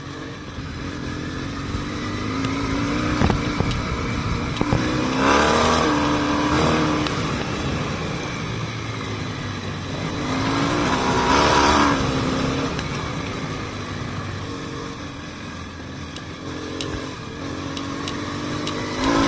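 Yamaha XTZ750 Super Ténéré's parallel-twin engine running under way on a gravel track, its pitch rising and falling with the throttle, over a haze of wind and tyre noise. The sound swells louder twice, about five and about eleven seconds in.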